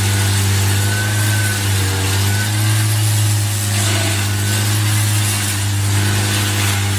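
A large engine running steadily under a constant low hum, with a hiss over it.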